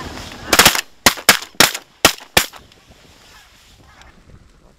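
A rapid volley of shotgun fire from several hunters: about six blasts in under two seconds, each one loud and sharp.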